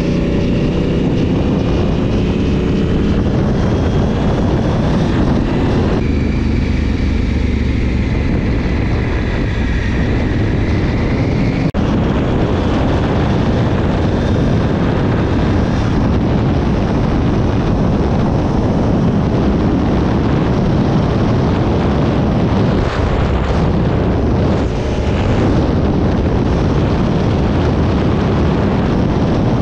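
Honda CRF1000L Africa Twin's parallel-twin engine running under way, its pitch rising and falling through the first ten seconds or so. Wind rush on the microphone then largely covers it.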